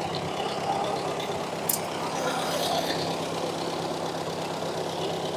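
Ford NAA tractor's four-cylinder gasoline engine idling steadily.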